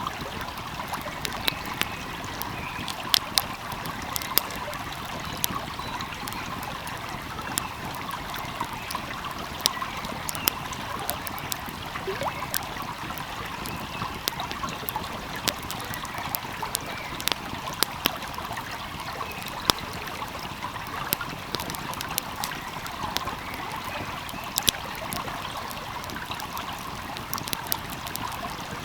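Wood fire crackling with scattered sharp pops, over the steady rush of a flowing stream.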